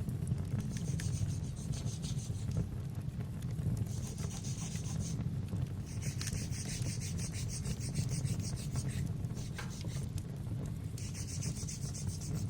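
Nail file rasping on an acrylic nail in several spells of quick back-and-forth strokes. Under it runs a steady low rumble of fireplace ambience with faint crackles.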